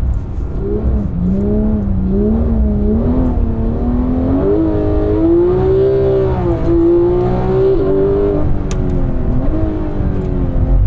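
Porsche 991 GT3's naturally aspirated flat-six engine under load on track, revs rising and falling as it is driven through the gears. The pitch climbs through the middle and drops sharply about eight seconds in.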